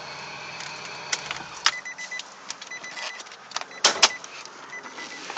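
Clicks and a loud clunk of a car's hood release and latch as the hood is popped, with a faint high electronic beep repeating in the background.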